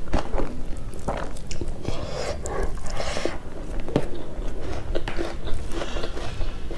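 Close-miked chewing and wet mouth smacking of someone eating rice mixed with curry by hand, a steady run of small irregular clicks and smacks.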